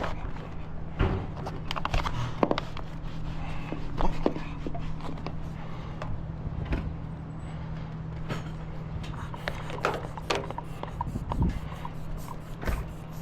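Scattered clicks and knocks of lockout tools working at a box truck's door, a few sharper taps among them, over a steady low hum.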